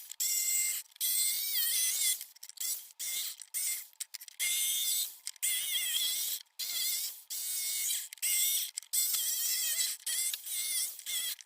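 A hand tool rasping against plywood in repeated strokes, each a fraction of a second to a second long with short breaks between, with a faint wavering whine in the strokes.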